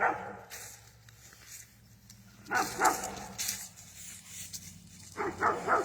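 Dog barking: a single yelp at the start, two barks about two and a half seconds in, then a quick run of barks near the end.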